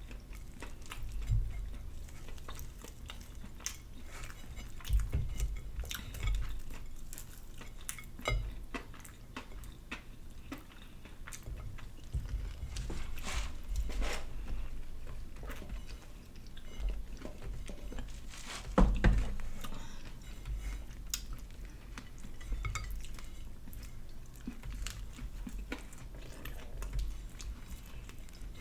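Close-up chewing and biting of a fried chicken and glazed donut sandwich, with scattered mouth smacks and small clicks. There is a louder knock, like something set down on the table, about nineteen seconds in.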